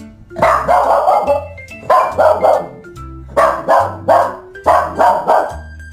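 Music with a bass line and dog barks in quick clusters of two or three, repeating about every one and a half seconds in time with the beat.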